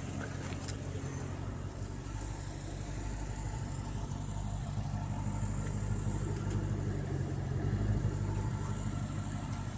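Twin-turbocharged V8 of a 1988 Callaway Corvette idling steadily.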